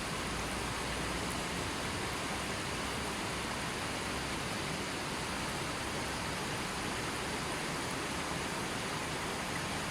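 River water flowing steadily over stones, an even rushing wash with no birds or other sounds.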